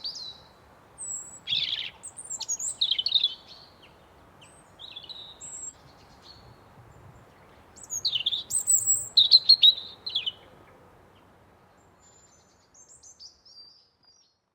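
Songbirds chirping and trilling in short, quick phrases, loudest about eight to ten seconds in, over a faint steady hiss of outdoor ambience that fades out; a few faint chirps follow near the end.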